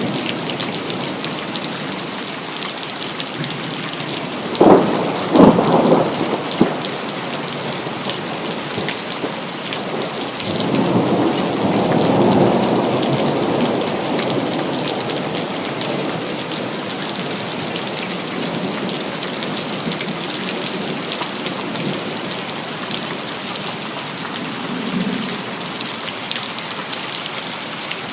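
Steady rain falling during a thunderstorm. About five seconds in, thunder breaks with a few sharp cracks, the loudest sounds here, and from about 11 to 15 s a long rolling rumble follows; a faint rumble comes near the end.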